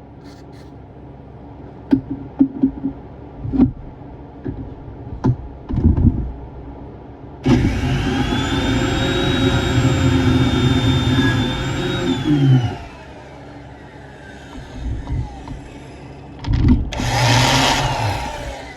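Scattered knocks and clatter, then a power tool's motor runs steadily for about five seconds and winds down with a falling whine. Near the end comes a short, loud hiss.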